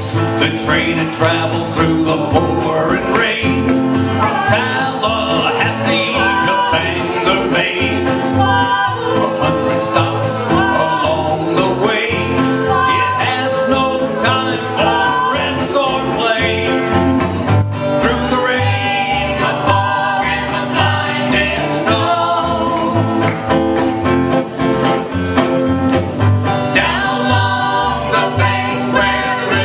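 Country-bluegrass band music with guitar and a steady bass beat, with singing over it.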